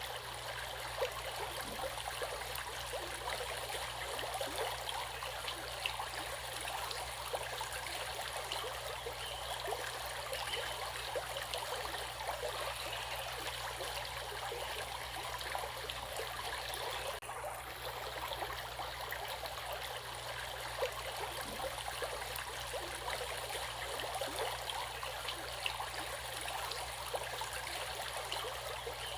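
Stream water running over rocks, a steady babbling flow with many small splashes and trickles.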